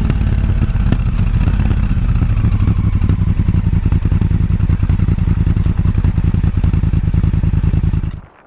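Motorcycle engine running steadily at low revs, with a rapid, even pulsing from its firing. The sound cuts off abruptly near the end.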